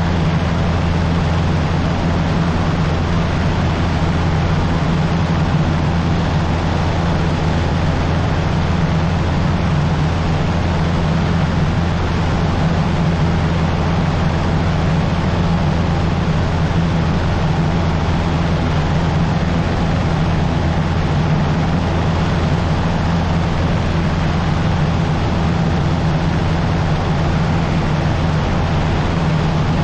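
Cessna 150's Continental O-200 four-cylinder engine and propeller droning steadily in flight, a constant low hum over rushing air noise.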